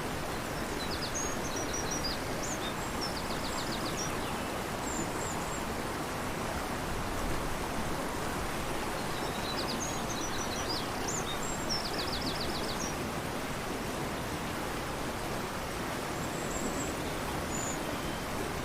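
A fast-flowing river rushing steadily, with a small bird singing the same high phrase twice about nine seconds apart, each phrase ending in a quick trill, and a brief faint call near the end.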